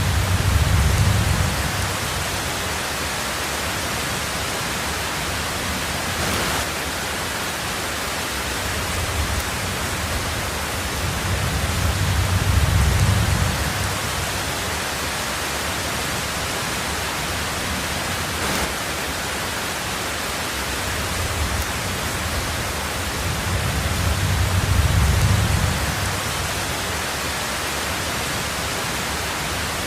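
Heavy rain falling steadily on a tin roof as an even hiss, with three low rumbles of thunder that swell and fade, about twelve seconds apart.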